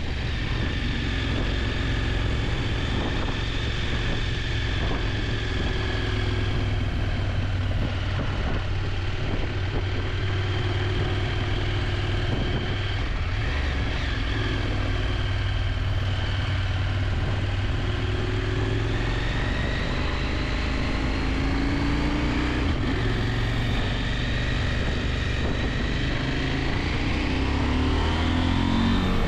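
KTM 890 Adventure's parallel-twin engine running steadily while riding, its pitch shifting gently with speed and rising near the end as the bike accelerates.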